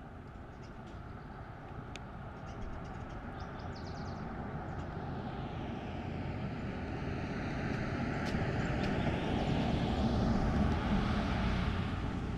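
A passing vehicle: a rushing noise that grows gradually louder, peaks about ten seconds in, then begins to fade. A few faint bird chirps sound in the first few seconds.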